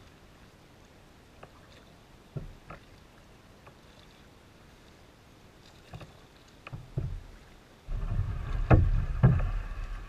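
Fiberglass hunting kayak being paddled: a few short splashes and knocks of the paddle against water and hull. From about eight seconds in comes a louder two-second stretch of rushing, scraping noise with sharp knocks in it.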